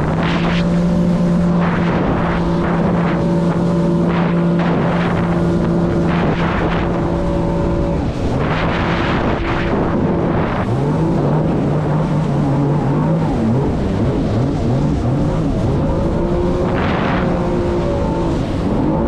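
Jet ski engine running at a steady pitch, then changing speed up and down for a few seconds about halfway through before settling again, with short rushing bursts of noise over it.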